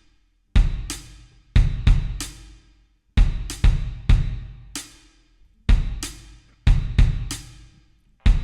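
Drum kit playing alone as a rock song's intro: kick and snare hits with ringing cymbals, in short groups of one to three strokes separated by brief gaps of near silence.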